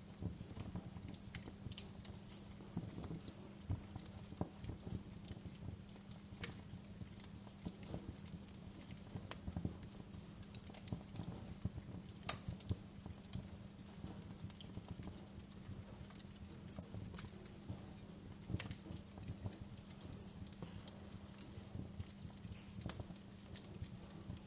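Wood fire crackling, with irregular sharp pops and snaps at uneven intervals, a few louder than the rest, over a steady low hum.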